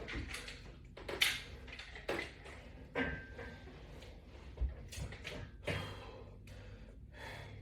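A person doing strap-assisted sit-ups makes short, noisy puffs of breath and movement about once a second.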